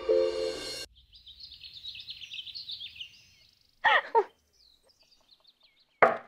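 Background music cuts off about a second in. Small birds then chirp rapidly in quick high notes, with a louder call of two falling notes about four seconds in. Another sound, likely voices, starts right at the end.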